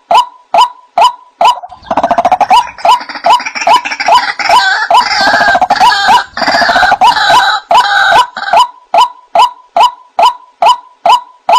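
White-breasted waterhen (ruak-ruak) calls: a fast, even series of 'kruak' notes, about two and a half a second. From about two seconds in until near three-quarters of the way through, a denser, harsher tangle of overlapping calls joins them, then the plain repeated notes carry on alone.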